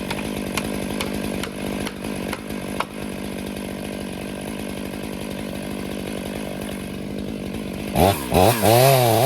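Two-stroke chainsaw running steadily at one pitch, with scattered sharp ticks in the first few seconds. Near the end it is revved up and down loudly several times.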